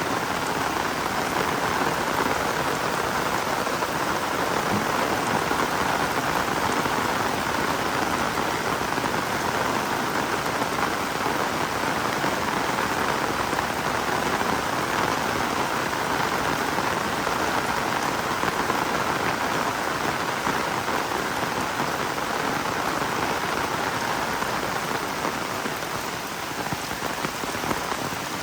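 Heavy rain falling steadily, an even, dense hiss of raindrops.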